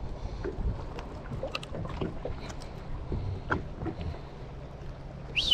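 Wind and water around a small fishing boat, a steady low rumble with faint scattered clicks and knocks. A brief high squeak falls in pitch right at the end.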